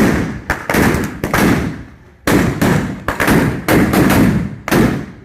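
Fireworks going off in quick succession: about ten loud bangs in five seconds at uneven spacing, each trailing into a short rumbling echo.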